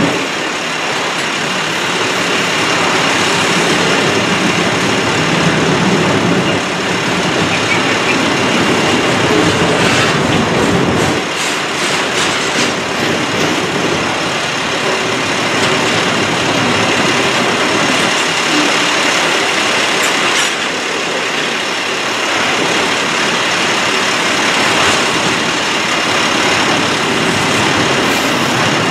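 Double-stack intermodal freight train's container well cars rolling past, a steady loud rumble and rattle of steel wheels on the rails.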